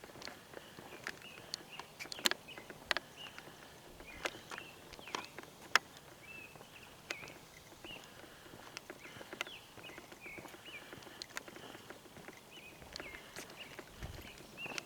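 Outdoor ambience: small birds chirping in short repeated calls, with irregular sharp clicks and taps scattered through, like footsteps on a path.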